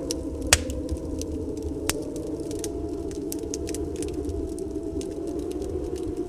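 Wood fire crackling, with scattered pops and a sharp louder snap about half a second in and another near two seconds. Under it runs a steady snowstorm wind with a faint whistling tone.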